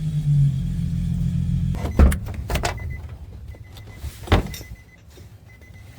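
Car engine idling, then shut off just under two seconds in, followed by a few sharp clicks and knocks and one louder knock a little past four seconds in.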